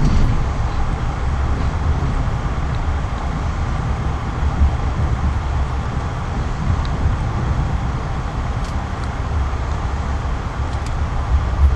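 Steady low rumble of a moving vehicle in motion, with a few faint light clicks over it.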